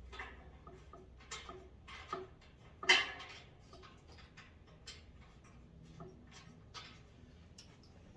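Scattered light clicks and taps of bolts and rack parts being handled while the bolts are screwed in during assembly, with one sharper knock about three seconds in.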